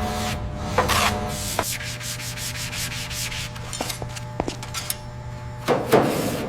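Abrasive rasping strokes, like sanding or scraping metal, over a steady low hum. One stroke comes about a second in, a few sharp clicks fall in the middle, and the loudest strokes come near the end.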